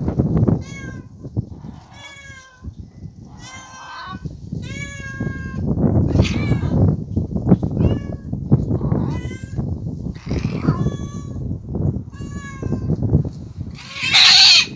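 Stray cats in a standoff fight, yowling back and forth in a string of drawn-out, wavering calls about once a second, with a loud harsh hiss-like burst near the end.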